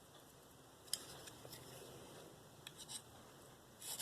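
Mostly near silence with a few light clicks and taps, one sharp click about a second in, from a knife being handled. Just before the end, a blade starts scraping across a coarse DMT Diafold diamond plate.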